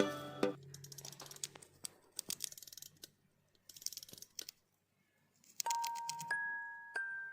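A hamster gnawing on a dried red date (jujube), heard as faint, scattered small crisp clicks. Background music fades out at the start, and bell-like chime music comes in about five and a half seconds in.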